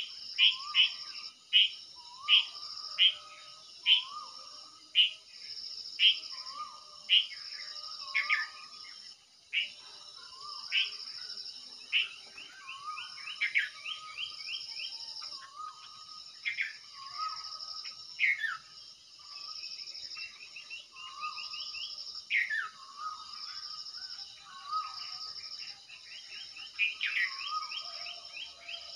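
Birds calling over and over, sharp falling notes about once a second with shorter swooping notes beneath them, over a high pulsing insect call that comes and goes in spells of a second or two.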